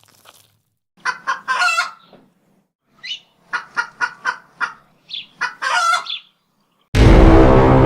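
A chicken clucking in two cackling runs, each a string of quick short clucks that ends in a longer squawk. Near the end a much louder, low, sustained sound cuts in suddenly.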